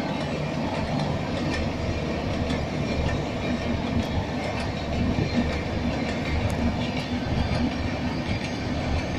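Long passenger train running along the line: a steady rumble with the clickety-clack of its wheels over rail joints.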